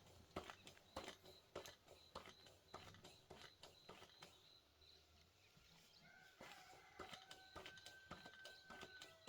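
Faint, regular light knocks about twice a second, with a thin steady whistle-like tone joining about six seconds in.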